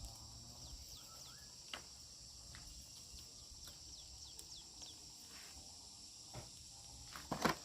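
Faint outdoor ambience: a steady high insect drone with repeated short, falling bird chirps and a few light clicks. A louder pair of knocks comes near the end.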